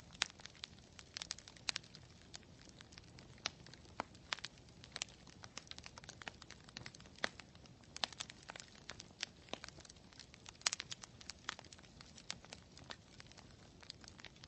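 Campfire burning with irregular sharp crackles and pops from the burning wood over a faint low rumble of flame.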